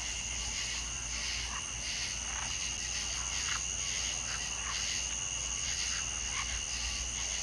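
Night chorus of frogs and insects: a steady high-pitched trilling with short calls repeating about twice a second, over a low steady hum.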